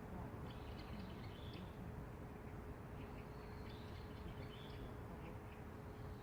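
Small birds chirping in two short flurries of high calls over a steady low background rumble with a faint constant hum.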